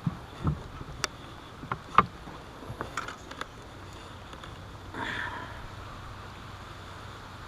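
Knocks and clatter of gear being handled in a small fishing boat: a string of sharp knocks over the first few seconds, the loudest about two seconds in, then a short rustle about five seconds in.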